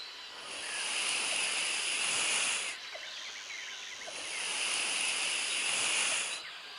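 A snake hissing: two long, drawn-out hisses, each about two and a half seconds, with a short pause between them.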